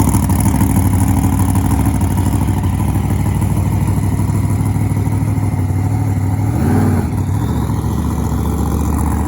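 An engine running steadily, with a brief rise and fall in pitch about seven seconds in.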